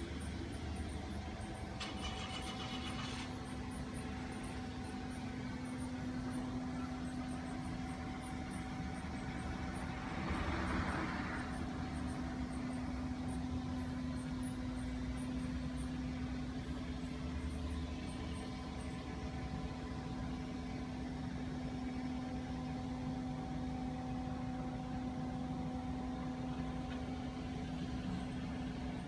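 A steady mechanical hum with a constant low tone, like a motor or engine running at idle. About ten seconds in there is a short swell of hiss.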